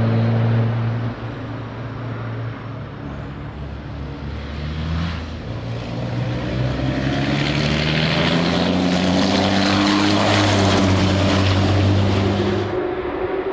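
Racing trucks' turbodiesel engines droning past a trackside microphone. The note drops about a second in, then a truck accelerates with a slowly rising pitch, growing louder with added rushing noise, before the sound falls away suddenly near the end.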